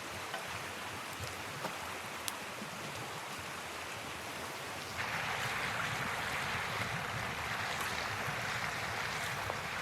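Steady rushing of flowing river water with a few faint clicks; it jumps louder about five seconds in.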